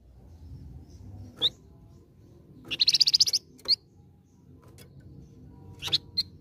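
Flamboyan songbird singing: a few short, high whistled notes and, about three seconds in, a rapid trill of quickly repeated notes.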